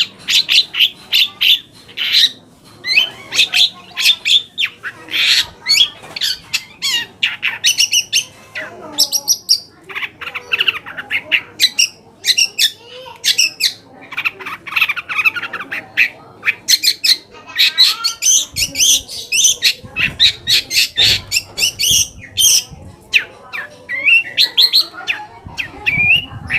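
Long-tailed shrike (cendet) singing: a fast, busy run of short, sharp chirps and harsh notes, mostly high-pitched, broken by brief pauses.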